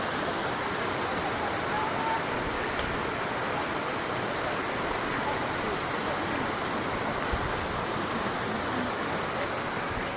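Waterfall pouring steadily: a dense, unbroken wash of falling water.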